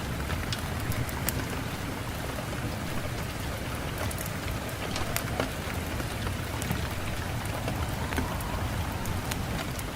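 Steady rain falling, with individual drops ticking sharply on a surface.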